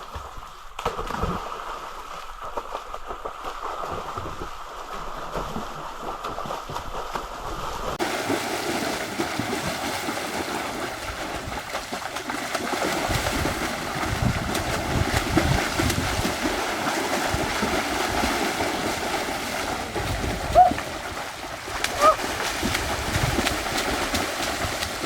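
Water running and splashing steadily, growing louder and fuller about a third of the way in, with a couple of brief high voice calls near the end.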